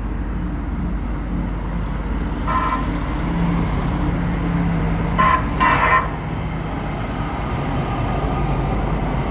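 Light rail train horn giving three short honks, one about two and a half seconds in and two close together around five seconds in, over a steady low rumble.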